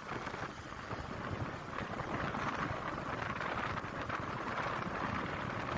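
Steady noise of a moving motorbike: wind rushing over the microphone with engine and road noise beneath, slowly growing a little louder.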